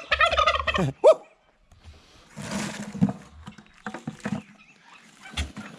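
Geese honking loudly in the first second, with a man's shout of "Woo!" among them, then a short hiss and a few quieter scattered sounds.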